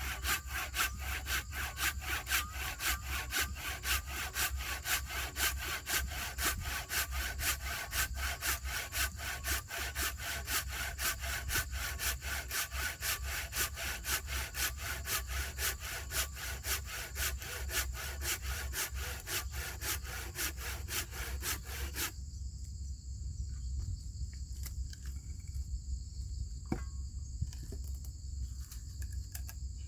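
Hand saw cutting through a fallen tree's wood in steady back-and-forth strokes, about two a second, which stop about three quarters of the way through. Insects trill steadily in the background, plainest once the sawing stops.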